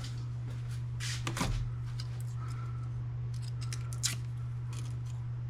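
Light clicks and snips of small plastic and metal printer parts being handled and pulled apart by hand, a few scattered sounds over a steady low hum.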